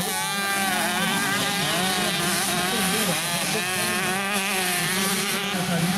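Several 65cc two-stroke motocross bikes racing, their engines revving up and down and overlapping, over a steady low hum.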